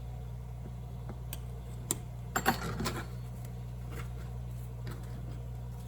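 Pizza cutter rolling through low-carb tortilla strips on a cutting board, giving a scattering of light clicks and taps, with the loudest cluster a little before halfway. A steady low hum runs underneath.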